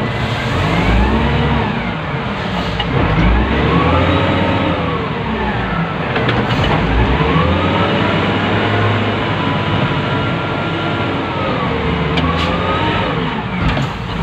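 Wheel loader's diesel engine heard from inside the operator's cab, revving up and falling back again and again, every two to three seconds.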